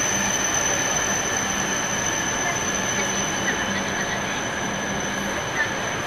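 E5 series Shinkansen train rolling slowly along a station platform: a steady rumbling hiss with a constant high-pitched whine over it.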